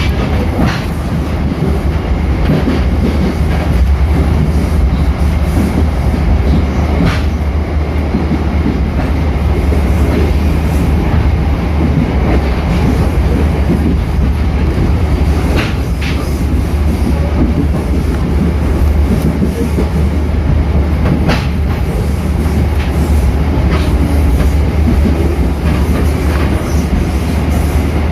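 A passenger train heard from aboard, its wheels running on the rails in a steady heavy low rumble. A handful of sharp, irregularly spaced clicks from the rails cut through it.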